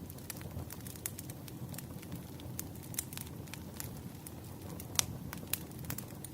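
Wood fire burning, with a steady low rumble and irregular sharp crackles and pops from the burning logs, the loudest pop about five seconds in.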